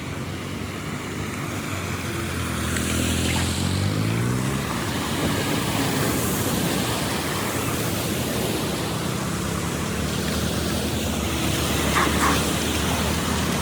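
Steady rush of flowing water with an engine running; the engine's pitch rises briefly about three seconds in.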